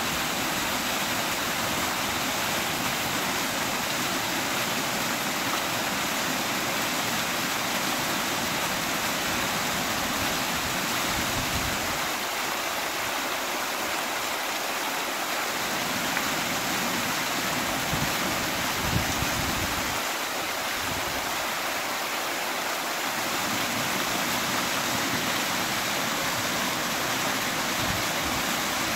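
Waterfall's water rushing steadily, with a low rumble underneath that comes and goes.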